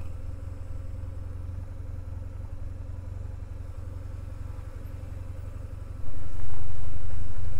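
Motorcycle engine idling steadily, much louder from about six seconds in.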